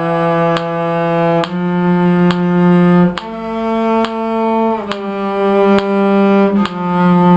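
A low bowed string instrument playing a slow melody of long held notes, each about a second and a half, stepping up and then back down, with a steady faint click about every 0.8 seconds behind it.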